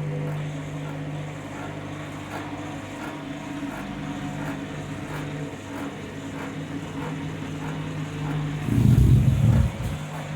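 Candy washing machine's motor humming steadily as the drum turns a heavy, unbalanced load of towelling, with a light regular tick about twice a second. Near the end, a loud low thudding.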